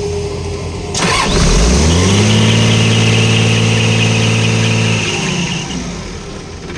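Engine of a Hitachi machine running at idle, then revving up sharply about a second in. It holds at high speed for about three seconds with a steady hiss over it, then drops back toward idle.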